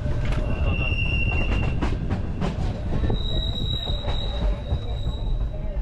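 Train running on rails with a steady low rumble and scattered clicks, its wheels squealing in two long high whines: one near the start, and a higher one from about three seconds in that lasts almost to the end.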